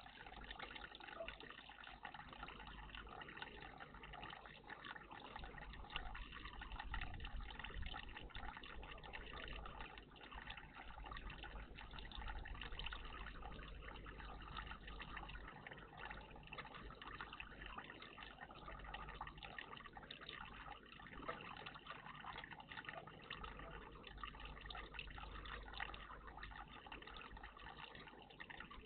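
Steady trickle of running water at a bird bath, with a constant low hum underneath.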